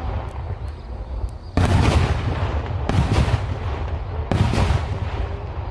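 Three loud firework blasts, about a second and a half apart, each followed by a long rumbling echo that dies away slowly.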